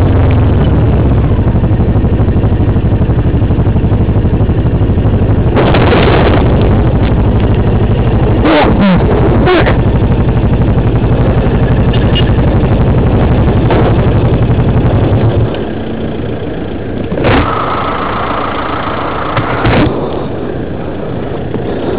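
A vehicle engine runs with a loud, steady low drone that drops away about fifteen seconds in. Short bursts of noise come around six and nine seconds. Near the end a steady high tone is held for about two and a half seconds.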